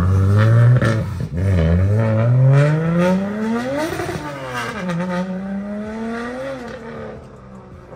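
Car engine at full throttle as the car pulls away. Its pitch climbs steadily for about four seconds, drops sharply, rises again more slowly and then fades into the distance.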